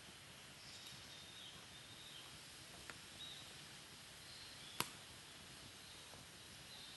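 Wood fire burning in a Picogrill 498 fire pit: a faint, soft crackle with a sharp pop about five seconds in and a smaller one near three seconds.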